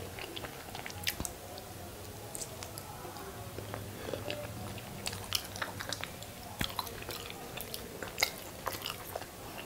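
Close-miked biting and chewing of masala-coated hard-boiled eggs: wet mouth sounds with many short, sharp clicks and smacks scattered throughout.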